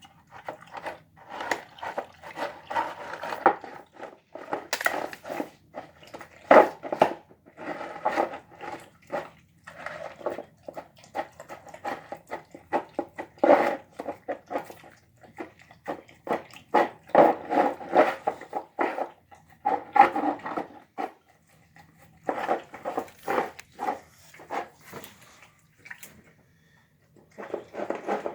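A dog eating chicken on the bone: rapid, noisy chewing and crunching with wet smacking, broken by two short pauses in the last third.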